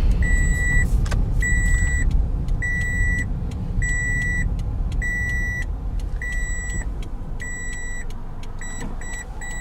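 A car's warning chime beeping steadily inside the cabin of a moving Toyota, about one half-second beep every second and a bit, over the low rumble of engine and road. Near the end it switches to short, rapid beeps, the pattern of an unfastened-seatbelt reminder.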